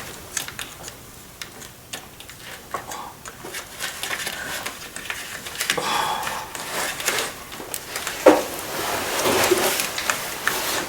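Scattered light clicks and clinks of hand tools and parts being handled on an engine while an ignition coil is removed to reach the spark plug, with a voice in the background now and then.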